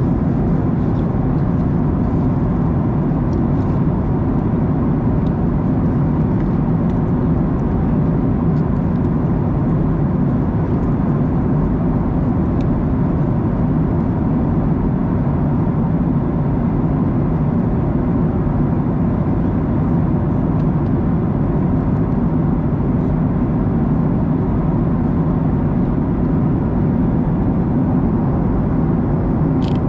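Steady cabin roar of a Boeing 737-900ER cruising, a mix of CFM56-7B engine drone and airflow over the fuselage, with no change in level.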